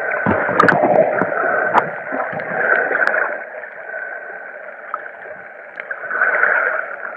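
Muffled water sloshing and splashing around a snorkelling swimmer, with scattered small clicks. It is busier in the first few seconds, eases off in the middle, and picks up again near the end.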